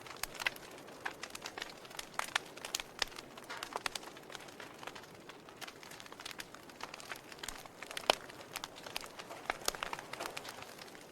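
Wood fire crackling in a fireplace: irregular sharp pops and snaps from burning logs over a soft hiss, with one loud pop about eight seconds in.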